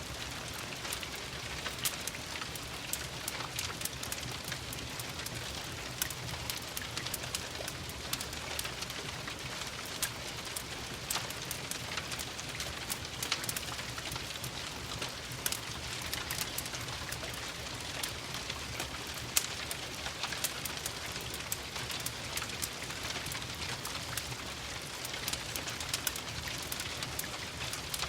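Steady rain hiss layered with a crackling wood fire, its sharp pops and snaps falling irregularly throughout, over a low steady rumble.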